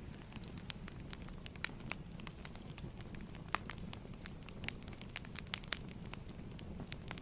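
Fireplace fire crackling: a low steady rumble of flames with frequent irregular sharp pops and snaps.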